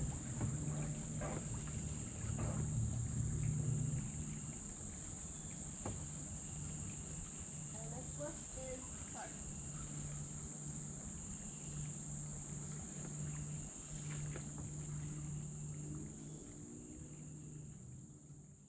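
Steady chorus of crickets, a continuous high-pitched trill, with a few light knocks scattered through.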